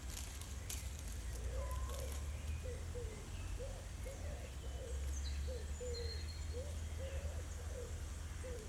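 Low, soft bird calls: a string of short arched notes, about two a second, from a farmyard bird such as the peafowl or hen kept together in the pen. A steady low rumble sits underneath.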